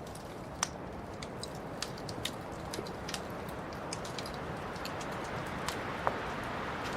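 Wood fire crackling: a steady soft hiss with frequent small, irregular snaps and pops, two of them louder, near the start and near the end.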